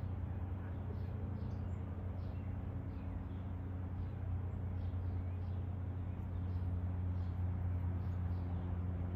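Birds chirping in a eucalyptus tree: faint short high chirps, about one or two a second, over a steady low hum.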